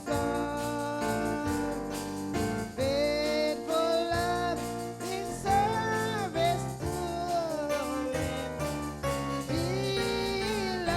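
Gospel song sung over keyboard accompaniment, with long held notes.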